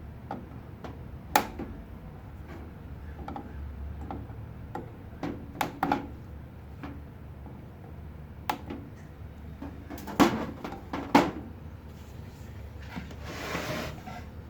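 Scattered clicks and knocks of objects being handled, with two louder knocks about a second apart near the end and a short hiss just after them, over a steady low hum.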